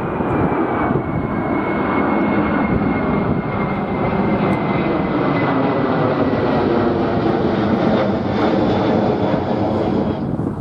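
Jet airliner's engines running loud as the plane passes close by, a steady rumble with a high whine that slowly drops in pitch.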